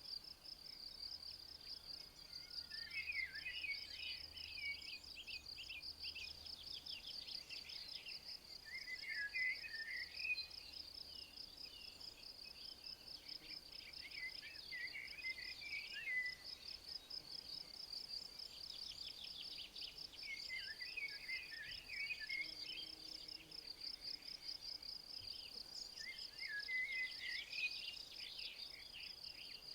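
A cricket or bush-cricket trilling steadily in a fast, even pulse, while a songbird sings five short warbled phrases at intervals of about six seconds.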